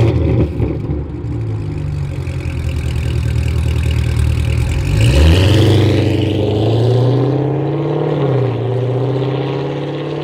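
Corvette V8 engine accelerating hard, its note climbing, with an upshift about five seconds in and another near eight seconds.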